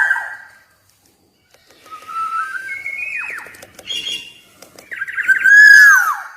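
Black-naped oriole singing: loud, fluty whistled phrases, two of them a couple of seconds apart, each ending in a falling glide.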